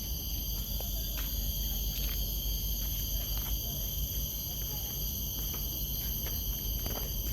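Steady chorus of insects in the forest, several unbroken high-pitched tones layered together, over a low rumble with a few faint clicks.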